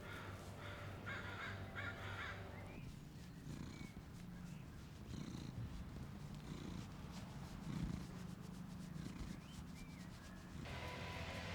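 Domestic cat purring, a low pulsing rumble, after soft background music drops away about three seconds in; the music comes back near the end.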